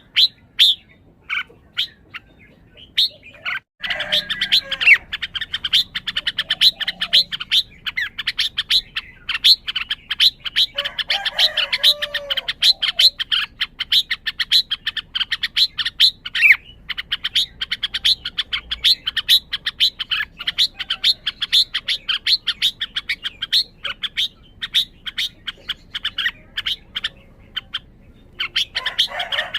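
Red-whiskered bulbul calling: a fast, dense run of short sharp chirps, broken by a couple of brief warbled song phrases about 11 seconds in and at the end. It is a display the owner wonders may mean the bird is highly worked up.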